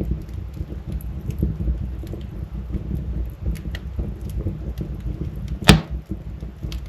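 Wood fire burning in a fireplace: a steady low rumble with scattered small crackles, and one loud sharp pop near the end.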